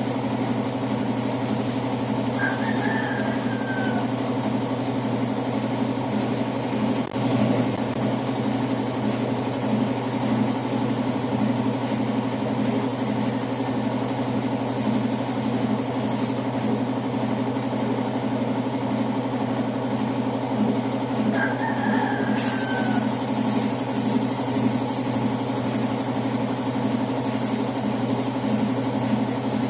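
Air compressor running steadily, with the high hiss of the spray gun's air that stops for about six seconds past the middle and comes back, plus a single sharp click about seven seconds in.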